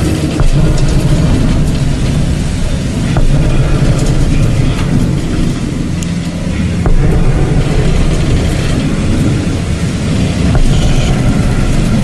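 A loud, low, continuous rumbling drone with a rushing noise over it, one of the unexplained 'strange sounds' recorded at sea. It sounds as if it comes from deep below.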